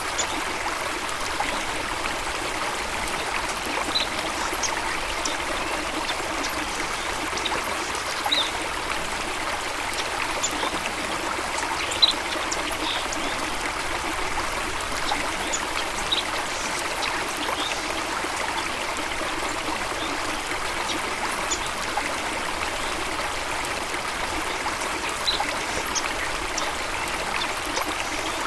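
A stream of water running steadily, an even rushing trickle, with short high-pitched chirps or plinks every few seconds.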